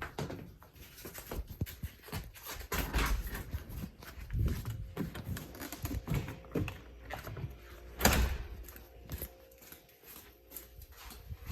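Footsteps and handling noise as people walk, with irregular knocks and a single loud thump about eight seconds in.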